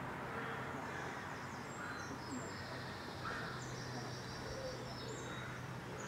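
Background birdsong: a small bird sings high, thin, quickly changing notes, with a steady low hum and outdoor noise underneath.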